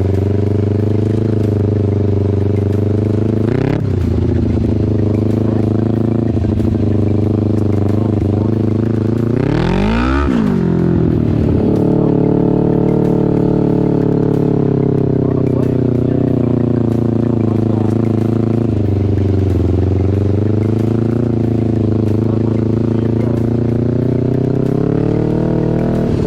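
Small racing engine running hard and steady. Its pitch swoops briefly about four seconds in, then drops and climbs back about ten seconds in as the throttle is lifted and reapplied.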